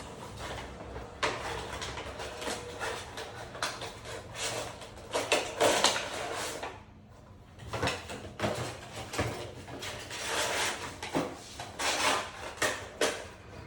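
Hands handling and unpacking items, making an irregular run of short knocks, scrapes and rubs, with a brief pause about halfway through.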